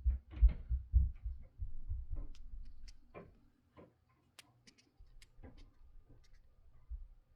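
Noise from neighbours: irregular low thuds and knocks, heaviest in the first couple of seconds, then scattered sharp clicks and taps.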